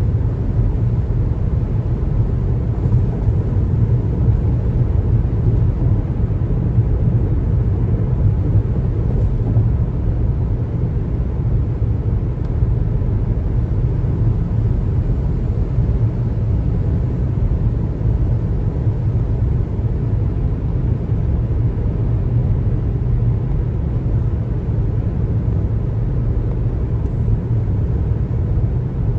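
Steady low road rumble of a car driving at a constant speed: tyre and engine noise.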